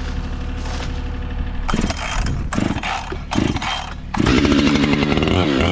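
Chainsaw engine idling, blipped a few times, then opened up to full throttle about four seconds in and held there.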